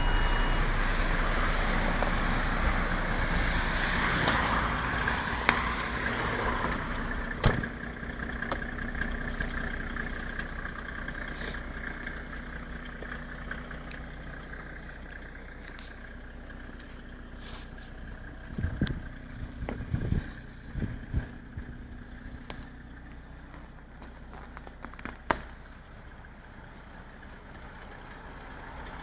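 Mercedes W140 300TD six-cylinder turbodiesel idling steadily just after a cold start in deep frost. It grows gradually fainter, with a few sharp knocks or clicks over it.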